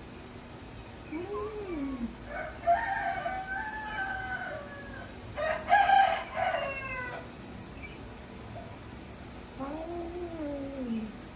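A domestic cat yowling at another cat over food in four drawn-out, wavering calls: two short low ones near the start and end, and two long ones in the middle, the second of which is the loudest. These are threat calls between rival cats.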